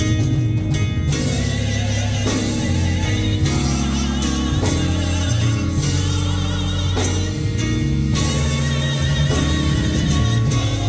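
Gospel music: voices singing over instrumental accompaniment with a sustained bass line that changes note every second or two.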